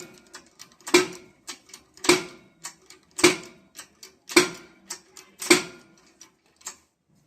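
A hammer striking metal in a steady rhythm, about one heavy blow a second, each with a short ringing note, and lighter taps between; the blows stop near the end.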